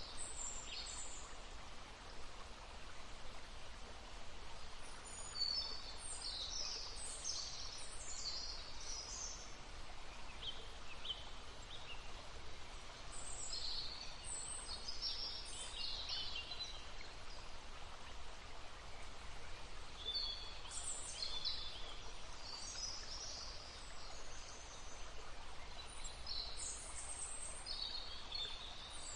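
Small songbirds singing bursts of high chirping phrases every several seconds over the steady babble of a stream.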